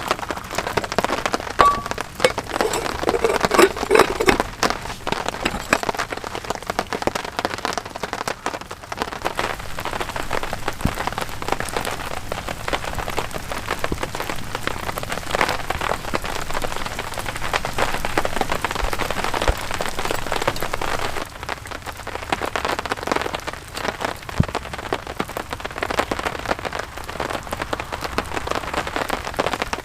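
Rain falling steadily, a dense patter of many drops hitting a surface.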